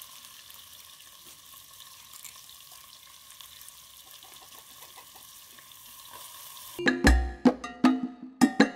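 Onions frying in coconut oil in a pot over a wood fire, a steady quiet sizzle with faint crackles. About seven seconds in, loud music of struck, pitched percussion notes comes in over it.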